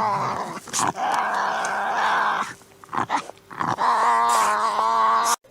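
Harsh animal calls, several in a row with short gaps between them, cut off suddenly near the end.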